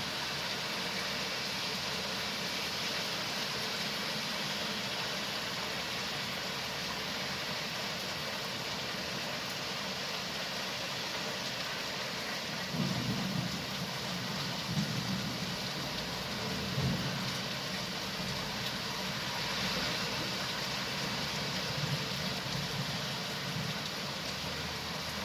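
Steady hiss of falling rain. From about halfway through a low rumble joins it, with a few brief swells.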